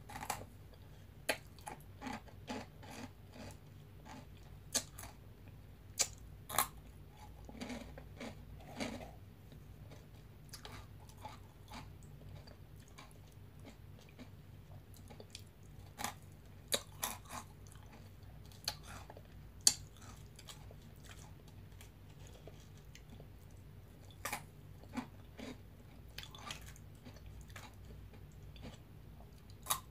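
Crunchy veggie straws being bitten and chewed close to the microphone: sharp crisp crunches that come in clusters, with pauses between mouthfuls.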